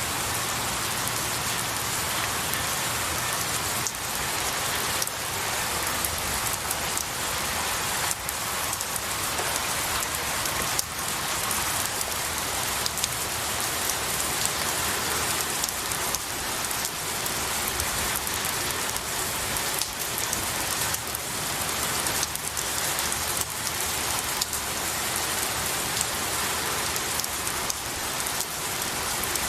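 Steady rain falling on pine needles and trees, with the patter of many separate drops over an even hiss.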